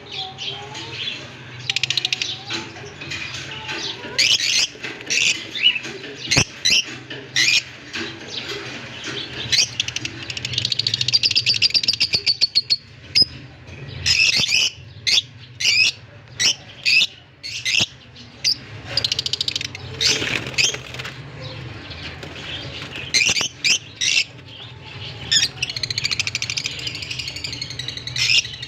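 Budgerigars chirping and warbling: a busy run of short, high chirps, with stretches of rapid chattering warble.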